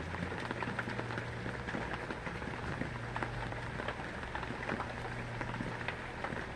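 Heavy rain falling steadily, with many separate drops ticking on a surface and a faint steady low hum underneath.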